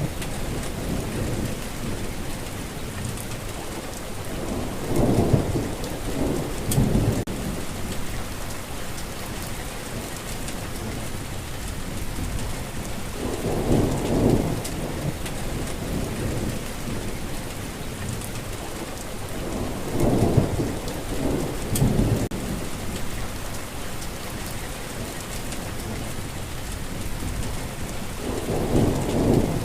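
Steady heavy rain hissing, with low rolling rumbles of thunder swelling and fading about four times.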